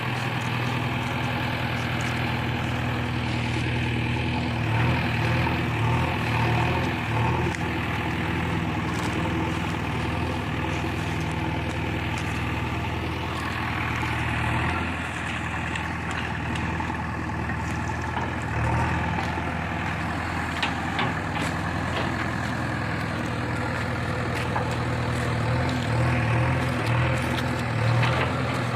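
Heavy diesel engines of a backhoe loader and tractor running steadily, the revs swelling briefly a few times as the machine works. Scattered light clicks and knocks sound over the engine noise.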